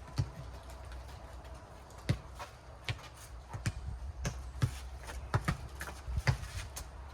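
Rubber four-square ball bouncing on a hard court and being hit back and forth, a string of irregular sharp smacks about once a second.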